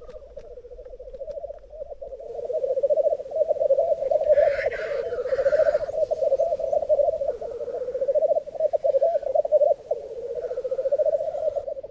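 A chorus of male black grouse bubbling (rookooing) continuously in lek display. One male gives a hissing call about four seconds in.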